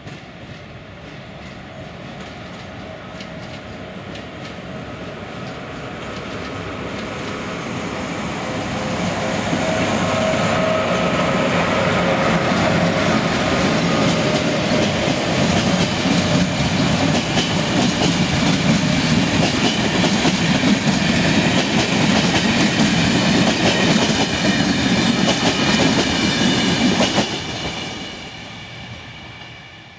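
Passenger train approaching and passing close by: the rumble and rail noise build steadily as it nears, then a long string of coaches rolls past with wheel clatter on the rails. The sound drops away sharply near the end as the last coach clears.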